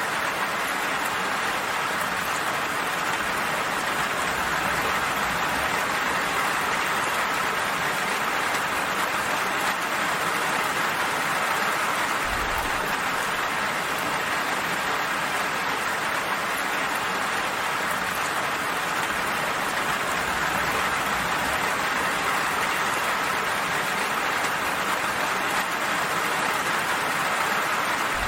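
Steady rain falling, an even hiss of drops with no pauses.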